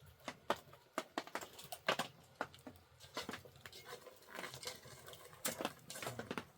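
A run of irregular sharp taps and clicks, some louder than others.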